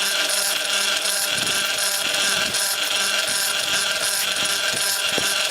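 Homemade concrete mixer running with its drum loaded with cement, sand and water, turning and mixing the batch: a steady mechanical hum over a continuous hiss, with a few faint knocks from the tumbling mix.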